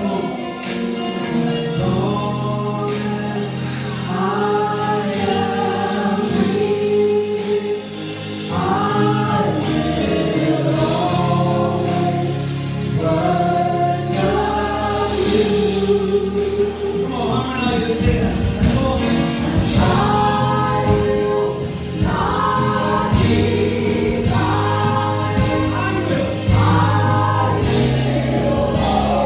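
Gospel choir singing a praise song with instrumental backing: voices in repeated phrases over steady bass and keyboard chords.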